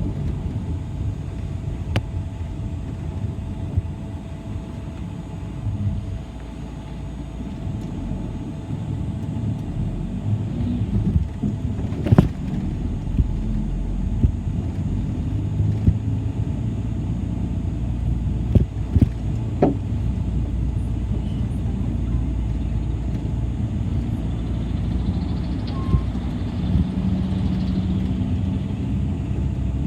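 City bus in motion, heard from inside: steady low engine and road rumble, with a few sharp knocks and rattles from the body.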